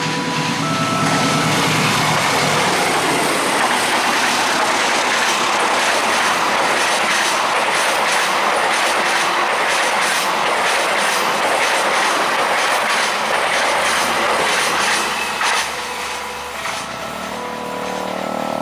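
A train passing over a level crossing at speed, a loud steady rush of wheels on rail with clickety-clack. It dies down about 15 s in, and the crossing's alternating two-note electronic warning bell comes through again.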